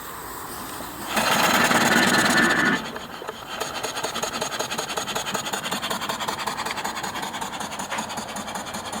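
Small steam engine (3.5-inch bore and stroke) running fast on live steam from its boiler, with a rapid, even beat. About a second in there is a louder stretch of rushing hiss lasting over a second.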